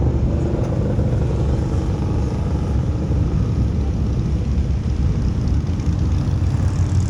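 Motorcycle engines rumbling steadily, a continuous deep rumble with no breaks.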